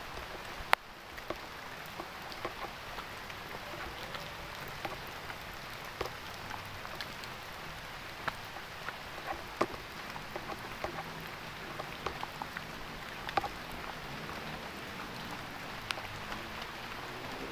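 Heavy rain falling steadily, with many separate drops landing as sharp ticks close by; one louder tick less than a second in.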